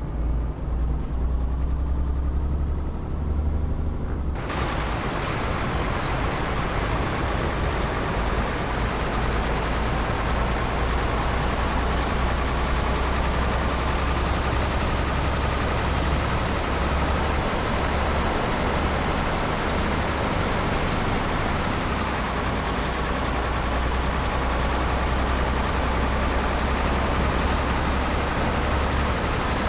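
Tanker truck under way, heard from the cab: a steady low engine drone with a whine that slowly rises and then falls. About four seconds in, a loud rushing noise comes in suddenly and stays.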